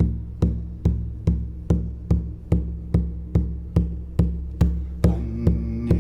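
Frame drum beaten in a steady pulse, about two to three deep strokes a second. About five seconds in, a sustained droning tone with overtones joins the beat.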